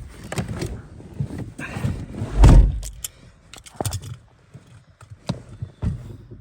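Car door thunks and handling knocks at a snow-covered Chevrolet Cobalt, with one short, loud low rumble about two and a half seconds in and scattered clicks after.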